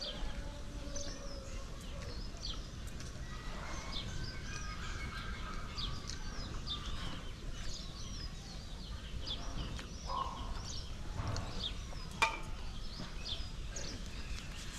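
Small birds chirping on and off in short quick calls over a low steady background rumble, with a single sharp click about twelve seconds in.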